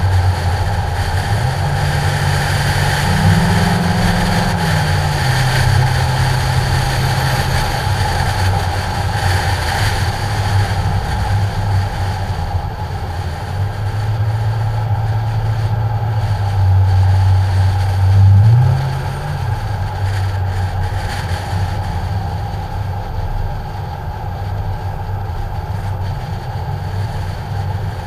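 Ford Mustang's engine running while driving, heard from a camera on the hood with wind noise over the microphone. The engine pitch rises and falls several times as the car speeds up and eases off, loudest about two-thirds of the way through.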